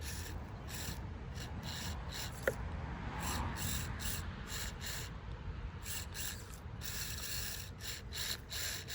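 Axial SCX24 1/24-scale RC crawler working its way over a crawler track: the small electric drivetrain and tires scrape and rattle against the obstacle in irregular bursts, with a sharp click about two and a half seconds in.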